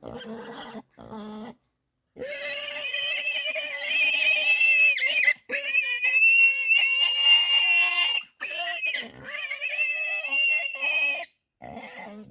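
An animal squealing: a few short calls, then a loud, high-pitched, drawn-out squeal from about two seconds in, broken twice, that stops about a second before the end, followed by one short call.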